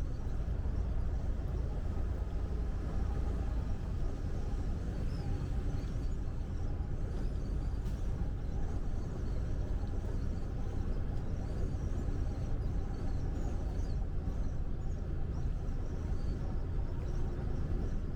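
Steady low rumble of a truck driving on the highway, engine and road noise running evenly without a break.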